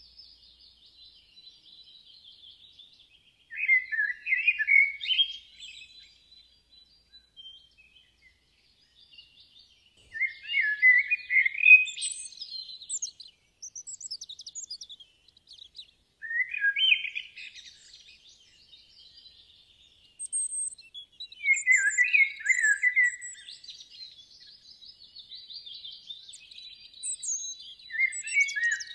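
A songbird singing repeated phrases of two to three seconds each, about five times, with pauses of several seconds between them. Fainter twittering from other birds carries on in the background.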